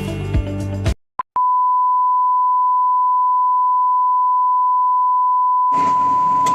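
Music cuts off about a second in, and after a couple of faint clicks a single steady electronic beep tone holds at one unchanging pitch; music comes back under the beep near the end.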